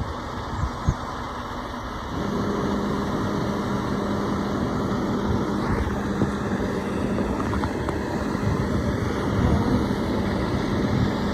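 Road vehicle running at highway speed: steady engine and road noise, with a steady drone that comes in about two seconds in.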